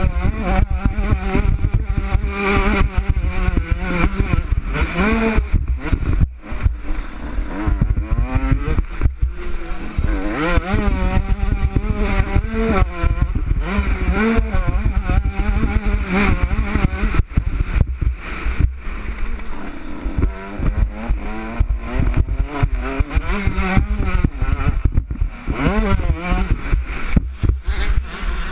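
Motocross bike engine at full race pace, its pitch rising and falling over and over as the throttle opens and closes and the gears change. Heavy wind rumble on the helmet-mounted microphone runs underneath.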